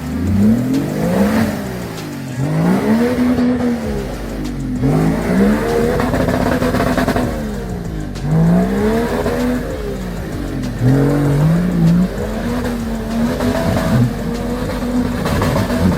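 An off-road 4x4's engine revving hard, its pitch climbing and dropping back again and again, about every one and a half to two seconds, as the driver works the throttle.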